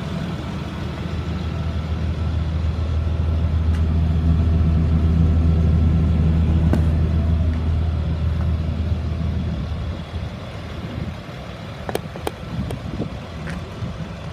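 2004 Blue Bird All American school bus engine idling with a steady low hum, growing louder toward the middle and then dropping away about ten seconds in. A few sharp clicks follow near the end.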